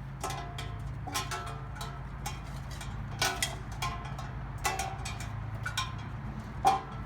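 Black Russian Terrier puppies yipping: short, high, sharp yelps repeated irregularly, about a dozen in all, with a louder one near the end.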